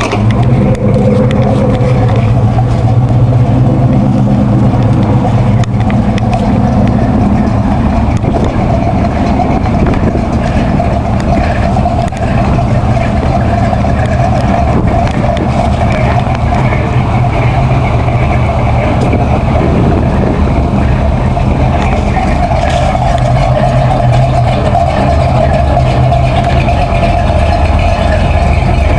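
Loud American V8 running at a steady idle through its exhaust, with a deep, even note throughout.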